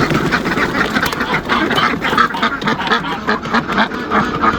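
A flock of domestic ducks quacking loudly, with many short calls overlapping in a continuous chatter.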